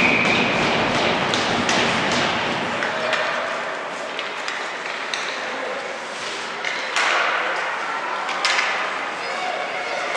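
Ice hockey game sounds echoing in an arena: sticks and puck clacking on the ice, with two louder bangs of the puck against the boards about seven and eight and a half seconds in, over a steady haze of crowd and rink noise.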